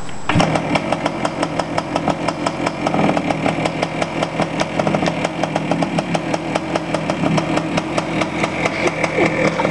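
1971 Yamaha CT1 175's single-cylinder two-stroke engine catching on a kick just after the start, on a cold start, then running at idle with rapid, even pulses.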